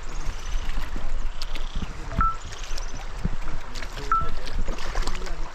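Water splashing and sloshing as a person wades barefoot across a river, pushing a bicycle. Two short, high beeps sound about two seconds and four seconds in.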